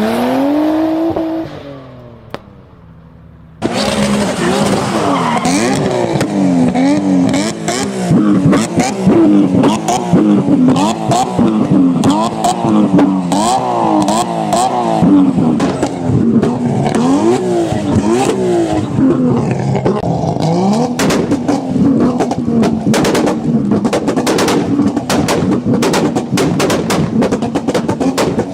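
A tuned car engine revving hard. Its pitch climbs and falls over and over, with many sharp crackles and pops mixed in. Near the start one rev rises and dies away, and about three and a half seconds in it cuts abruptly to a louder stretch of rapid revving.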